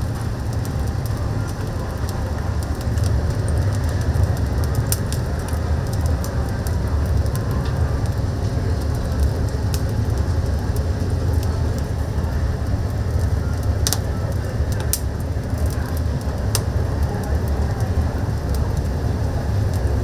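Oak firewood burning in a chicken-roasting oven: a steady low rumble of the fire with a few sharp crackling pops.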